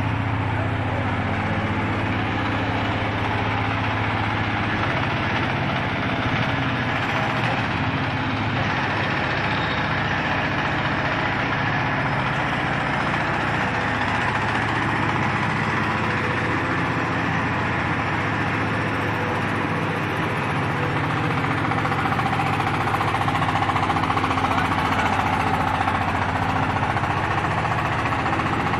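Diesel engine of a YD1350 hydraulic scrap baler running steadily, driving the baler's hydraulic system. It gets a little louder about two-thirds of the way through.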